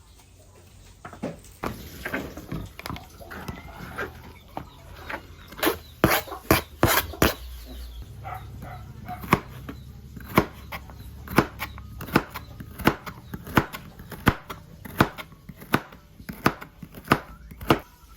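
A series of sharp knocks: a quick cluster a few seconds in, then about one knock a second, over a low steady hum.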